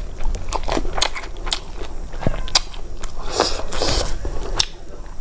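Chewing a mouthful of rice, with many small wet clicks and smacks of the mouth.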